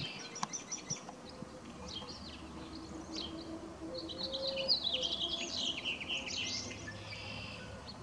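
Small birds chirping and twittering in quick high calls, busiest around the middle, over a faint steady low hum.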